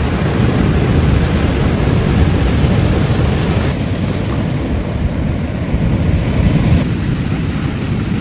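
Steady rushing of ocean surf with wind buffeting the microphone in a heavy low rumble; the high hiss thins abruptly about four seconds in.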